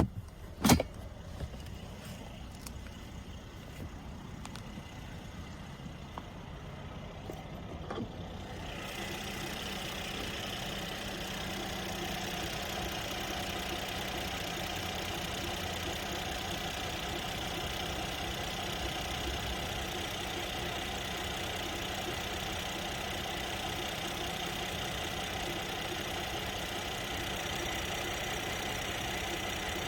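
Car sounds: a sharp click about a second in and a few faint ticks, then about nine seconds in a steady running noise comes up and holds.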